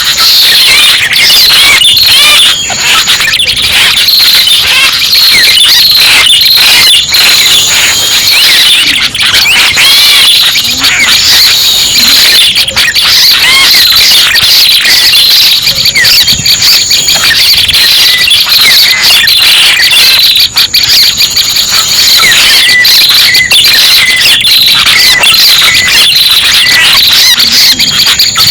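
Lure recording of prenjak pala merah calls: a loud, unbroken chatter of many quick high chirps. A thin high whistle, held for about a second, recurs every few seconds.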